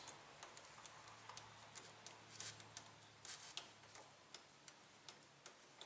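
Near silence with a few faint, scattered clicks of small parts being handled: a rubber fuel line being pushed onto a plastic inline fuel shutoff valve.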